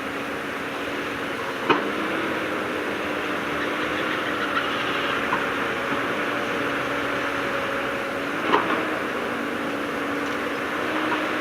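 Diesel engine of heavy earthmoving machinery running steadily at an even pitch, with two sharp knocks, one a little under two seconds in and one near the end.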